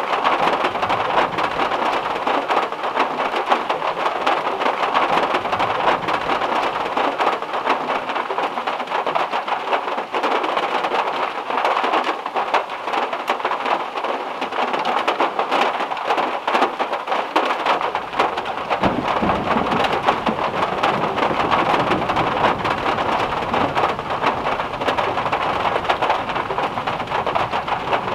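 Heavy rain drumming on a VW Beetle's metal roof: a dense, steady patter of drops. A low rumble joins about two-thirds of the way through.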